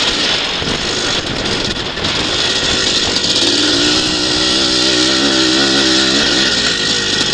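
A twinshock motocross motorcycle's engine runs hard on a dirt track. Its revs rise about three and a half seconds in, hold with a wavering pitch, then drop back shortly after six seconds.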